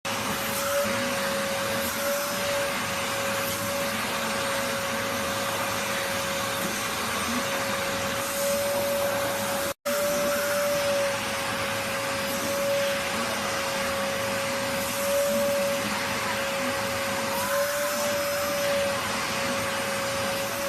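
Vacuum cleaner running steadily, a constant rushing noise with a steady whine, cutting out for an instant about ten seconds in.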